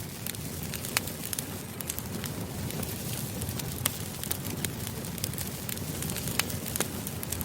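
Wood campfire burning: a steady low rush of flames with irregular sharp crackles and pops, about one a second, the loudest near the start, the middle and toward the end.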